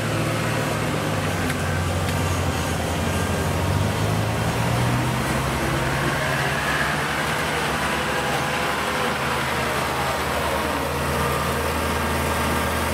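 Kubota DC70 combine harvester's diesel engine running steadily, a low hum whose pitch rises slightly about five seconds in.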